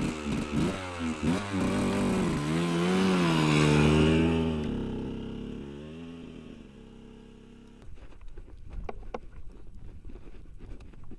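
A vehicle engine revving hard in snow, its pitch wavering up and down. It is loudest about four seconds in and then fades away as the vehicle pulls off. Faint crackles follow.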